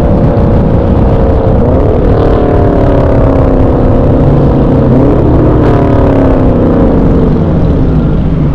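Car engine revving, its pitch climbing quickly twice, about two and five seconds in, and sinking slowly after each, over a steady low rumble.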